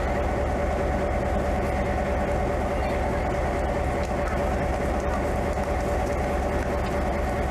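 Train on the Tamsui line running steadily: a continuous, even rumble with a steady hum over it.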